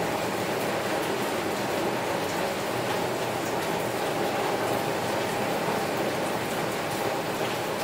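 Heavy rain falling on a window: a steady, dense hiss of rain with scattered individual drops ticking through it.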